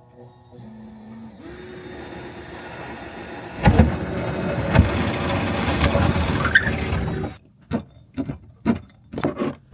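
A power tool's motor running steadily and getting louder as it works into material, with a few heavy knocks. It cuts off suddenly about seven seconds in, followed by a quick series of sharp clicks and knocks.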